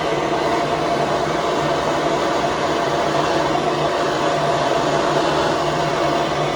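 Gas soldering torch flame burning with a steady rushing noise, as used to heat silver for soldering.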